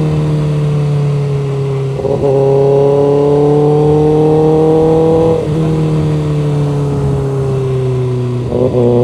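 Motorcycle engine running under way. Its note climbs slowly for a few seconds, drops about halfway through and eases down, then changes sharply near the end.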